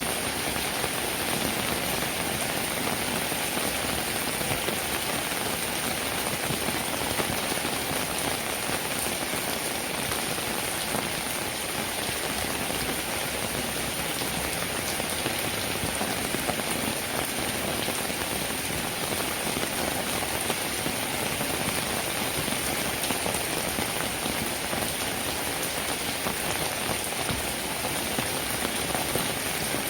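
Steady rainfall: a dense, even hiss of countless drops landing, unchanging in strength.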